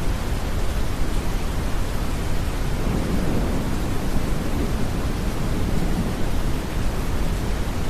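Steady deep brown noise blended with rain hiss, with a low rumble of distant thunder swelling through the middle and fading out.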